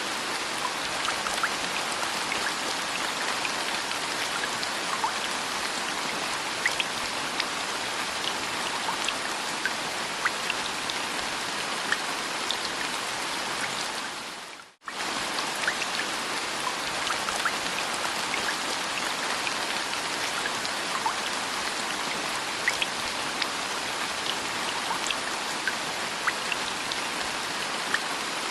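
Steady rain with scattered individual drops ticking on a surface. The sound cuts out for a split second about halfway through and then resumes.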